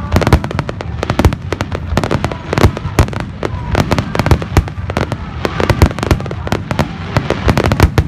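Fireworks going off in rapid succession: a dense run of sharp bangs and cracks, several a second, over a low rumble.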